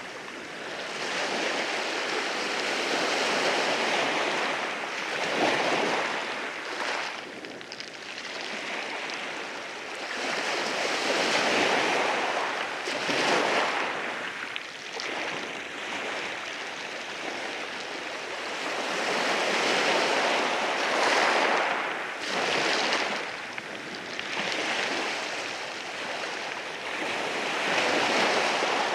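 Sea waves rolling in over rocks on a beach, a steady hiss of surf that swells and falls back every few seconds.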